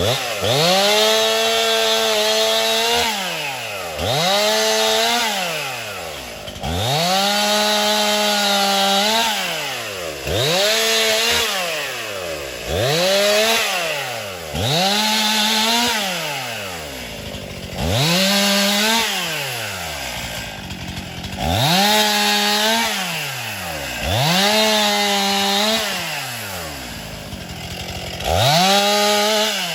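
Two-stroke chainsaw throttled up to full speed, held for a second or two and dropped back to idle about a dozen times, making short cuts through the trunk and branches of a downed bigleaf magnolia.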